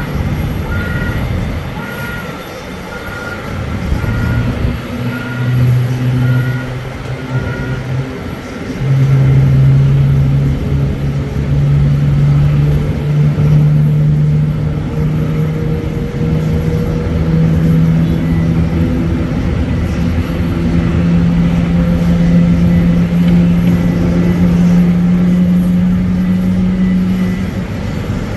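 Boeing 777-200ER jet engine starting: a steady low whine that comes in about four seconds in, gets louder around nine seconds, then rises slowly in pitch as the engine spools up. A vehicle's reversing beeps repeat about twice a second through the first six seconds.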